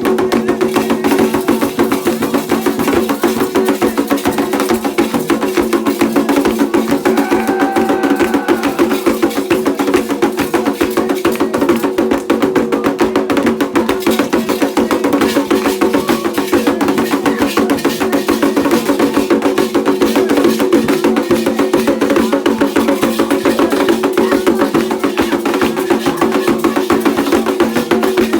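Ceremonial Candomblé drumming: fast, continuous drum strokes with a bright clacking beat over them. A short wavering tone sounds briefly about seven seconds in.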